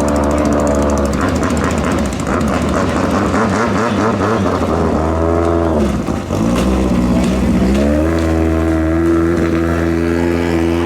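Racing long-tail boat engines running loud, the pitches of more than one engine wavering and crossing. About six seconds in the pitch drops briefly, then revs back up and holds steady.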